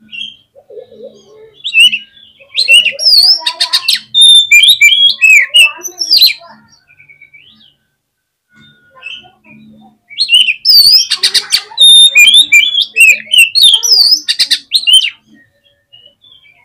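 Oriental magpie-robin (kacer) singing vigorously in two bouts of a few seconds each, separated by a short lull. Each bout is a fast run of varied whistled notes sliding up and down, mixed with harsh rattling chatter.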